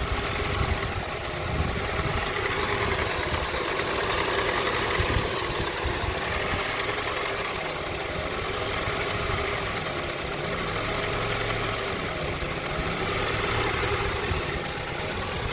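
2002 Honda CR-V's 2.4-litre four-cylinder engine idling roughly, its sound swelling and sinking slowly every few seconds as the RPM hunts up and down. This is an unstable rough idle that the part just tested or replaced has not cured.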